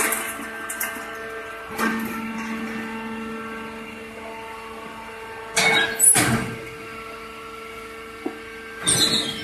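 Hydraulic straw baler running with a steady motor-and-pump hum. Short, loud rushes of noise come about two seconds in, around six seconds, and again near the end.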